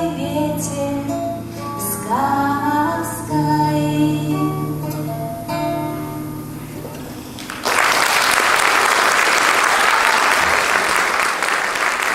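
A woman's singing voice with acoustic guitar, holding and bending the last sung notes of the song. About eight seconds in, the music stops and audience applause breaks out.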